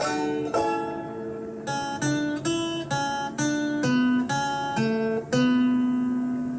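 Background music: a plucked acoustic guitar picking a melody, note by note, with a longer held note near the end.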